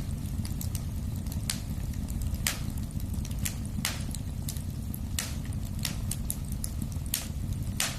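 Wood fire crackling in a fireplace: irregular sharp pops and snaps, roughly one or two a second, over a steady low rumble of the flames.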